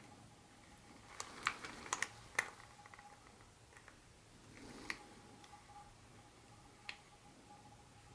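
Sharp light clicks and taps of small plastic pieces and packaging being handled. A quick cluster of clicks comes in the first couple of seconds, then a few single clicks further apart.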